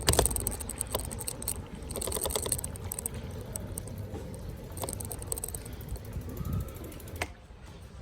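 Bicycle ticking and rattling on the move: bursts of rapid ratchet-like clicking, as from the freewheel while coasting, over low road rumble, with a single knock near the end.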